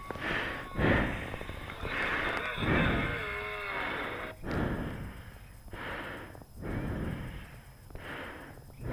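WD-40 aerosol spraying in a series of short hissing bursts onto the motorcycle's rear brake linkage, with a brief wavering squeak about three seconds in.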